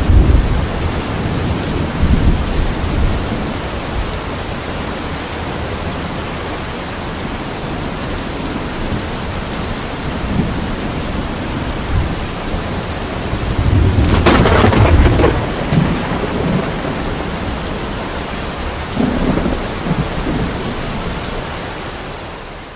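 Heavy, steady rain with low rolling thunder. A louder, sharper thunderclap rumbles about two-thirds of the way through, another smaller rumble follows near the end, and then everything fades out.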